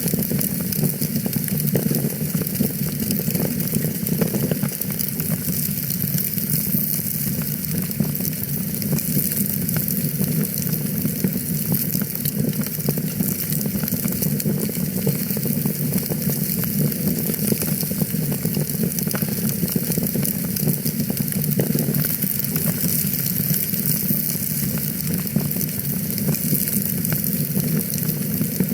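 Wood fire crackling in a fireplace: a dense, steady stream of small pops and snaps over a low rumble of the flames.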